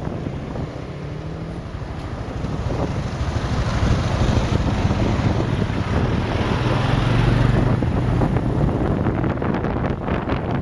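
Wind buffeting the microphone on a moving motorbike taxi, with the motorcycle's engine running low underneath; the engine and wind grow louder about four seconds in as the bike picks up speed.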